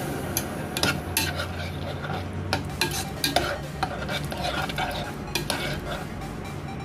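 A spoon stirring chicken curry with vegetables in a pot: irregular scraping and light knocks of the spoon against the pot, over a low sizzle.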